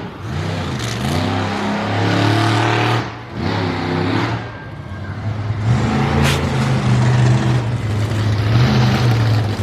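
Monster truck engine revving, its pitch rising and falling. It drops back briefly about three and five seconds in, then runs hard and steady through the second half.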